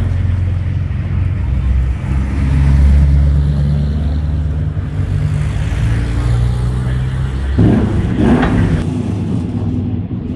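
Historic racing-car engines running at low speed as cars drive slowly through the pit lane, a steady low engine note that swells about two seconds in. About eight seconds in, a brief louder rev.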